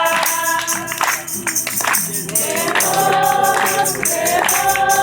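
A group of voices singing a gospel chorus, holding long notes, with percussion keeping a steady beat.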